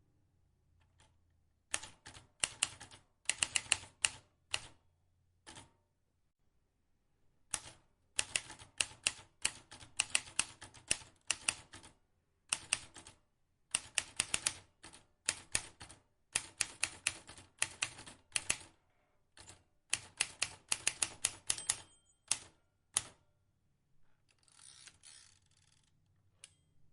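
Vintage typewriter being typed on: quick runs of sharp key clicks in bursts, with short pauses between them. Near the end comes a softer rasping sound lasting about two seconds.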